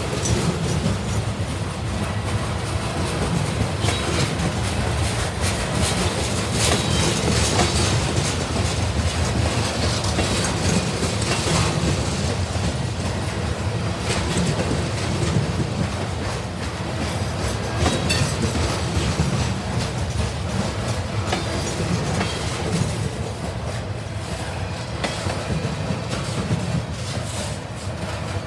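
Freight cars of a trash train, flatcars loaded with waste containers, rolling steadily past: a continuous rumble of steel wheels on rail with clickety-clack over the rail joints.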